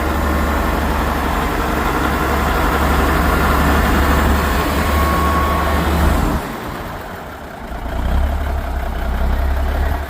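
Diesel engine idling with a steady low rumble, which fades about six seconds in and comes back about two seconds later.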